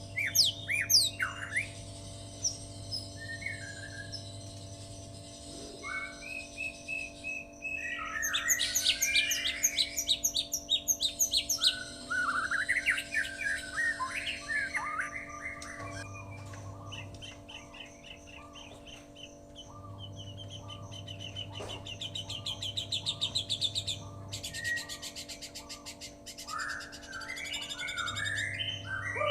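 White-rumped shama (murai batu) singing a long, varied song of whistled phrases, fast trills and chattering runs of rapidly repeated notes, with lovebird-like chatter mixed in. A steady electrical hum sits underneath.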